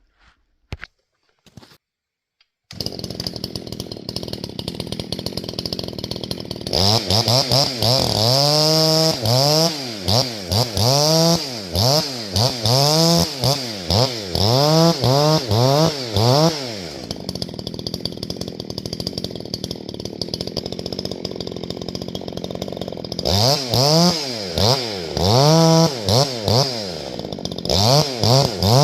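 A Husqvarna 350 two-stroke chainsaw starts running a few seconds in and idles. It is then revved up and down in quick throttle blips, about one a second, for around ten seconds, as in limbing. It drops back to idle, then revs in the same quick blips again near the end.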